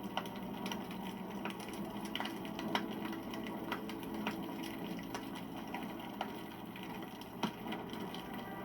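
Wood campfire crackling, with irregular sharp pops and snaps over a steady hiss of burning, and a steady low hum underneath.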